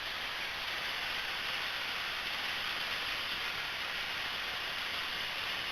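Steady hissing cabin noise of a Cessna 172M in flight, the engine and airflow blended into an even rush with no change in pitch.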